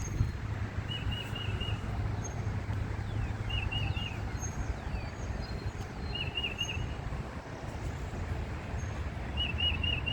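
A songbird repeating a short warbled phrase of three or four quick notes, four times about every two and a half seconds, with thin high chips from other birds in between. A steady low rumble runs underneath.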